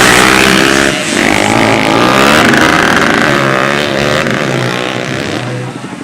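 Underbone race motorcycle engines revving hard, their pitch rising and falling through the gears as the bikes race past, fading near the end.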